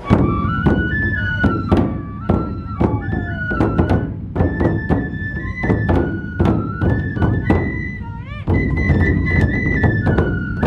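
Matsue dō-gyōretsu festival music: a transverse bamboo flute plays a melody of held notes, bending up once near the end, over rapid, steady beating on large dō barrel drums with metal hand cymbals. The music starts abruptly at full loudness.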